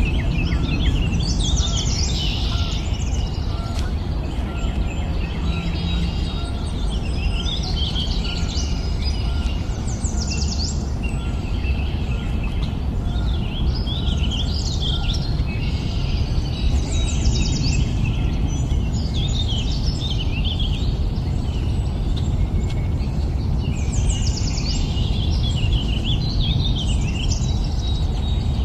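Songbirds singing, with tangled phrases of quick high chirps and trills coming every few seconds, over a steady low rumble of background noise.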